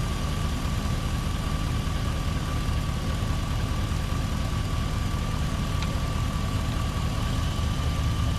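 2000 Chevrolet Silverado pickup's engine idling steadily with its air-conditioning compressor engaged, a thin steady whine over the low engine rumble.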